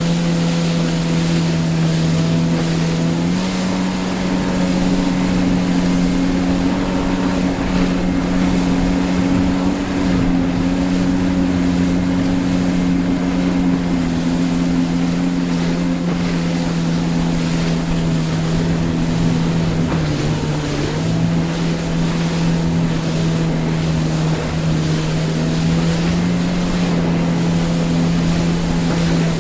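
Yamaha FX HO jet ski engine running steadily at cruising speed, with a slight rise in pitch about three seconds in and a brief dip later on. Wind and water spray hiss under it.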